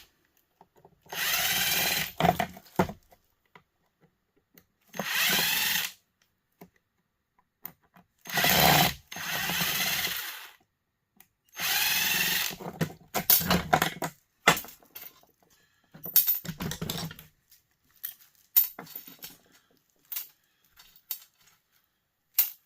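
Power drill running in four short bursts of one to two seconds, spinning out screws. After that come scattered short clicks and knocks of parts being handled and pulled loose.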